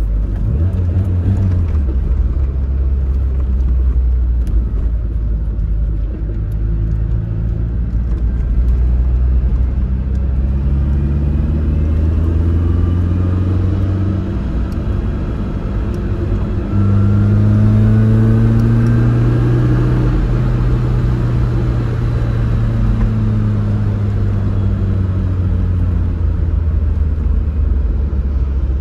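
Tofaş Doğan SLX's four-cylinder engine running hard, its pitch rising and falling in long sweeps as it is revved up and eased off, louder from a little past halfway.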